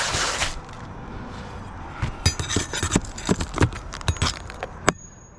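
Metal objects clinking and knocking: a rush of noise at first, then a quick run of sharp metallic clinks and taps for about three seconds, ending in one sharp click.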